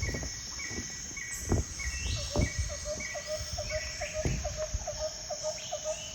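Birds calling: a run of short, high, evenly spaced notes, then from about two seconds in a quicker series of lower notes, over a steady high hiss. A few low thumps come through.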